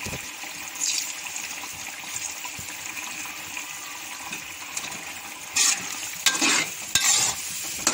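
Green chickpeas and masala sizzling in oil in a kadai, a steady hiss. Near the end a steel spoon scrapes through the pan in several loud stirring strokes.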